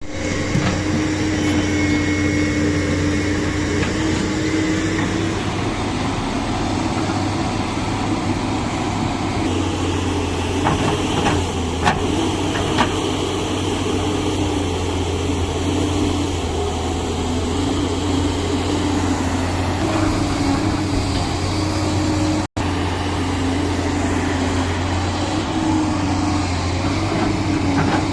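Heavy diesel engine of earthmoving machinery running steadily under load, with a low hum and a slightly wavering tone above it, and a few short knocks about halfway through.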